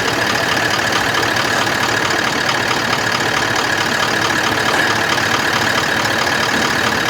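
A 4WD's engine running steadily, with no change in revs. The vehicle is bogged to the axle.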